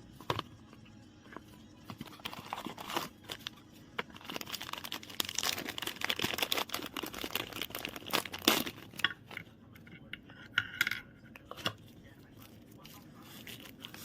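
Crinkling, rustling and tearing of packaging with many irregular clicks and taps of handling, busiest in the middle seconds.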